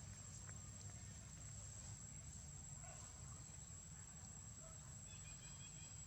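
Faint steady high-pitched drone of insects, over a low background rumble, with a few faint ticks and a short high chirp near the end.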